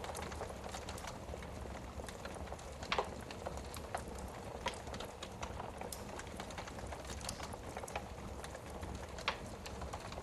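Wood fire burning in a fireplace: irregular crackles and pops over a steady low hiss, with two louder pops, about three seconds in and near the end.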